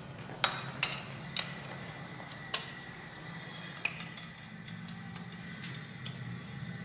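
Metal tools and engine parts clinking against each other in irregular sharp clinks, several in the first few seconds, during hand assembly of a diesel engine's cylinder head. A steady low hum runs underneath.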